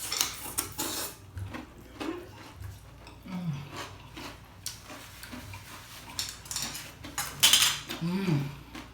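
Eating utensils clicking and scraping against a bowl of seafood as people serve and eat, with a louder clatter or slurp about seven and a half seconds in and a couple of brief hums.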